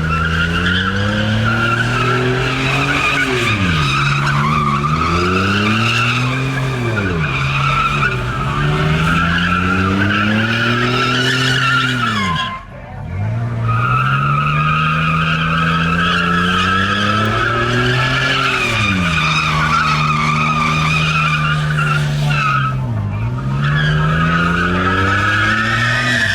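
A car doing a burnout, its tyres screeching steadily while the engine revs climb and fall again and again. The screech cuts out briefly about halfway through, then starts again.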